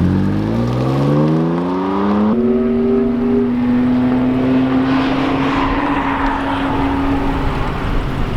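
BMW F80 M3's twin-turbo inline-six accelerating hard. The revs climb steeply for about two seconds, drop abruptly at an upshift, then pull up again more slowly while a rushing noise builds.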